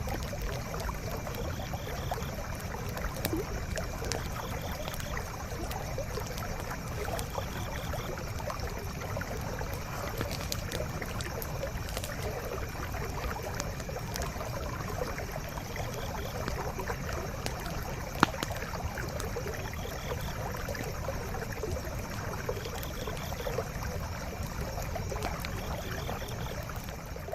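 Campfire crackling with scattered small pops and one sharp pop about two-thirds of the way through, over the steady rush of a flowing stream. A faint short chirp repeats every couple of seconds.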